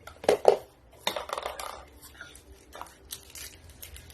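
Small hard objects being handled, clicking and clattering in short bursts: a couple of knocks just after the start, a busier clatter about a second in, and a few lighter clicks near the end.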